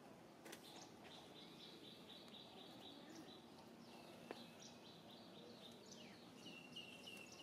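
Faint outdoor ambience with a bird calling in quick, even runs of short high chirps, about five a second, repeated several times, and a single sharp tick about four seconds in.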